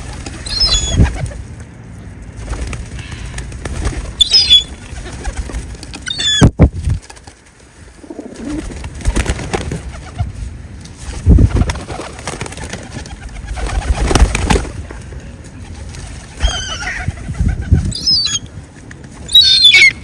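Birds calling with short, high chirps every few seconds, over loud, low flutters and rustles that come and go.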